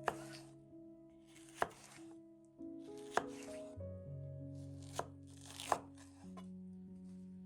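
Knife chopping on a cutting board: five sharp strokes about a second and a half apart, each followed by a brief swish, over background music with sustained notes.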